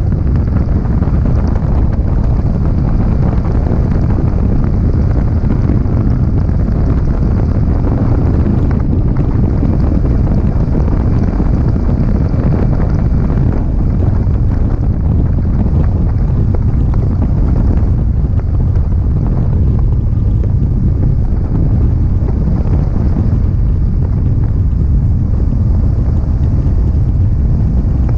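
Steady wind buffeting on an action camera's microphone during a ride on a 2023 Yamaha R15M, with the bike's 155 cc single-cylinder engine and stock exhaust running under it.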